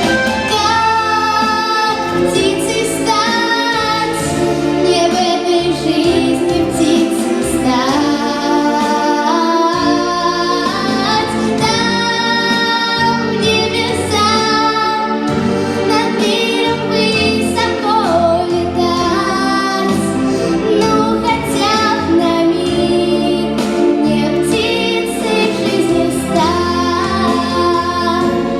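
A young female voice singing a song, in Russian going by the title, over instrumental backing music.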